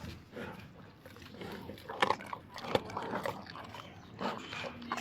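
Young tiger chewing chicken, with irregular wet crunches and sharp snaps of bone between its teeth.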